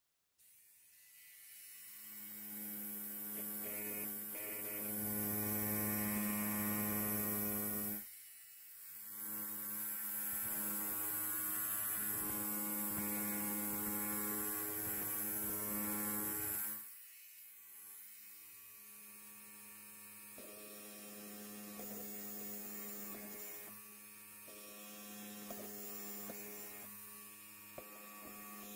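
Electric hair clipper buzzing, a steady hum with many overtones. It grows louder over the first two seconds, dips briefly about eight seconds in, and drops to a quieter level about seventeen seconds in.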